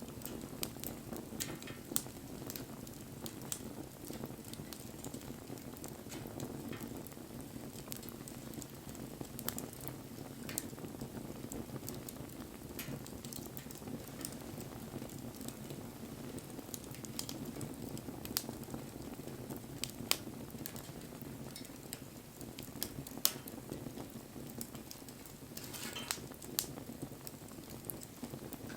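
Wood campfire burning: a steady low rumble of flames with scattered sharp crackles and pops, and a brief hiss about two seconds before the end.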